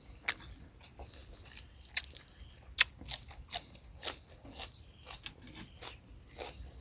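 A person chewing and eating at close range: irregular wet smacks and small clicks of the mouth. Behind it is a steady high insect trill.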